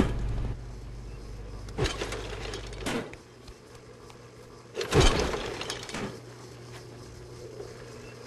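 A few sudden hits or crashes, the loudest about five seconds in, over a low hum that drops away about three seconds in.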